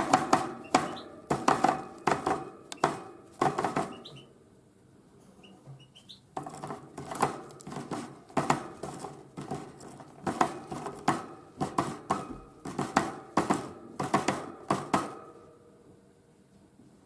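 A tit pecking at sunflower seeds: rapid, irregular sharp taps in two bouts, broken by a pause of about two seconds with a few faint high notes. The taps stop about a second and a half before the end.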